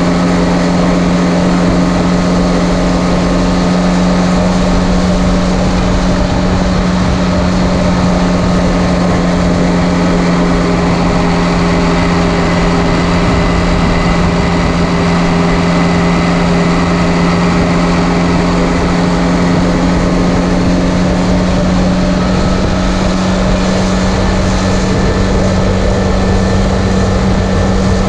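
Straight-piped John Deere 2030 diesel tractor engine running at a steady road speed, a loud, even exhaust drone with no change in pitch. The muffler is gutted, so the exhaust is unsilenced.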